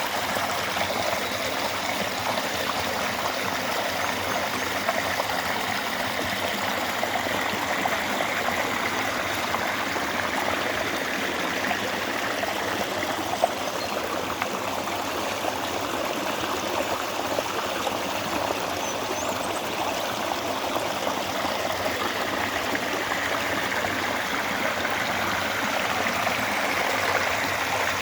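Steady rushing and trickling of a forest stream, even throughout with no breaks.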